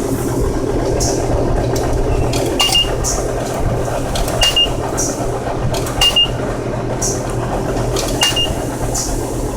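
Steady hum and spray hiss of a coin-op self-serve car wash bay running, with sharp clinks and a short high double beep four times, about two seconds apart.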